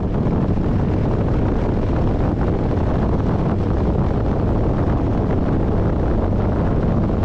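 Steady rushing wind on the microphone and road noise while riding a Harley-Davidson motorcycle at speed, with the engine buried under the wind.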